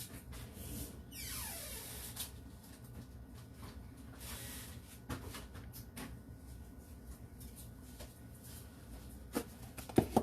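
Quiet kitchen handling noises while measuring powdered sugar for frosting: rustling and scraping with scattered light clicks, a falling swish about a second in, and a sharper knock near the end.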